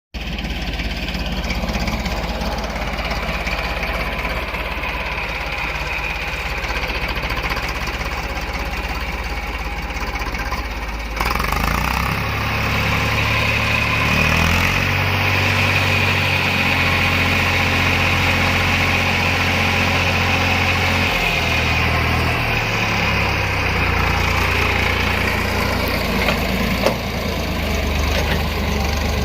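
Tractor diesel engine running with a loader attached, its note changing abruptly about eleven seconds in and then stepping up and down in pitch for several seconds as engine speed is varied.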